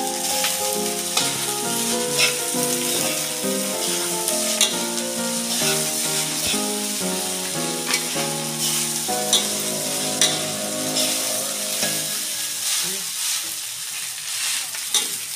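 Fried rice sizzling in an aluminium wok while it is stirred and tossed with a metal spatula and spoon, with short scraping strokes against the pan. Background music plays over it and stops a few seconds before the end.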